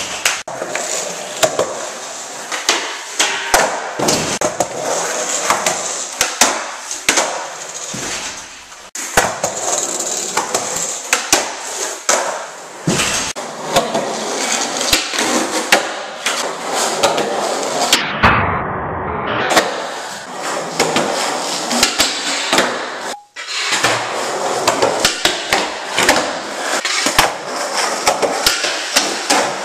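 Skateboard wheels rolling on a hard floor, with many sharp clacks and knocks from the board's tail popping and landing. The sound breaks off abruptly twice in the later part as the clips cut.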